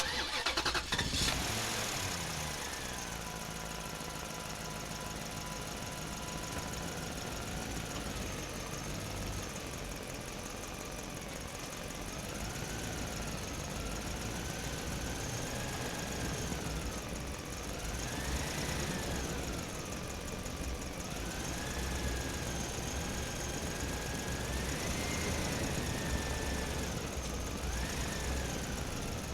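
Small motor running steadily, with a whine that rises and falls in pitch again and again.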